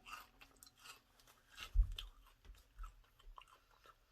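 Chewing on a crunchy baked Parmesan cheese crisp, a faint run of small irregular crunches with the loudest about two seconds in.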